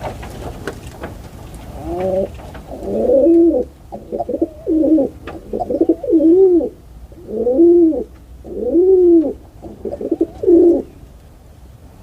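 A dove cooing: a long series of low, arched coos, each rising and then falling in pitch, beginning about two seconds in and stopping shortly before the end.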